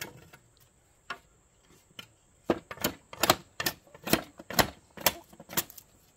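Sharp blows of a hand tool striking wood, one after another: a few single knocks, then a steady run of about two or three a second from about two and a half seconds in.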